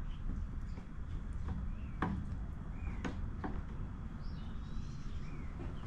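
A few sharp clicks and taps of pliers working a fuel hose into the grommet of a backpack blower's fuel tank, over a low steady hum. A bird chirps several short calls in the background.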